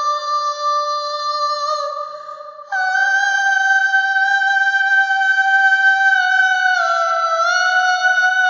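A high voice singing two long held notes without words. The second note is higher, starts abruptly about three seconds in, and dips slightly in pitch near the end before settling back.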